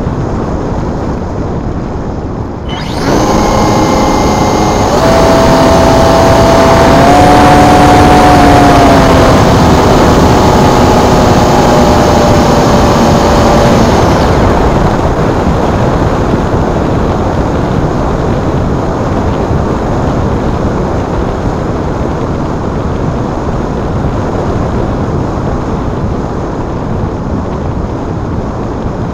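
Electric motor and propeller of an RC glider running under power: a sudden start about three seconds in, a steady whine that rises a little and then falls, and a stop about halfway through. Wind buffets the microphone throughout.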